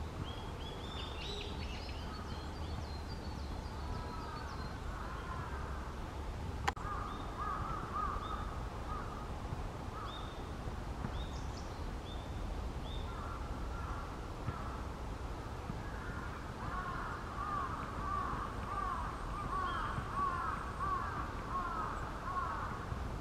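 Wild birds calling: many short low calls in quick runs, densest in the last third, with a few high thin notes over them. A single sharp click comes about six and a half seconds in.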